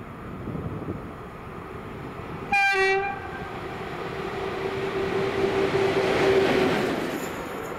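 A train sounds a short horn blast about two and a half seconds in, then passes with a rising rush of wheel and rail noise under a steady hum, loudest near six seconds and easing off near the end.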